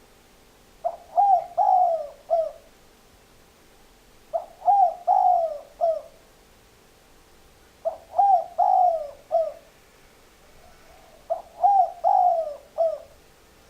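Spotted dove cooing: four phrases of about five low coos each, repeated roughly every three and a half seconds.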